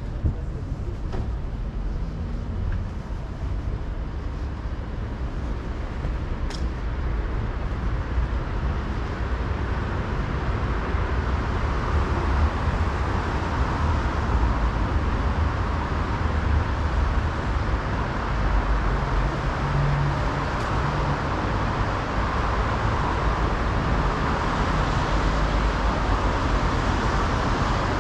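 Busy city street traffic: a steady rumble of passing vehicles that grows louder and fuller from about a third of the way in.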